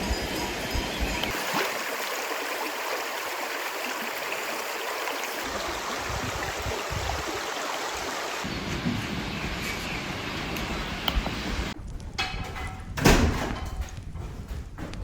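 Running water, a steady rushing hiss. About twelve seconds in it cuts off to quieter sound, and a single sharp knock follows about a second later.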